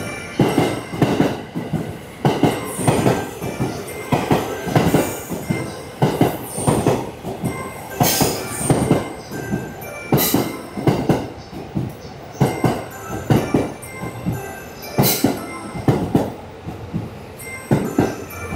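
Sleeper train running along the track, its wheels knocking irregularly over rail joints, two or three knocks a second, over a steady rumble.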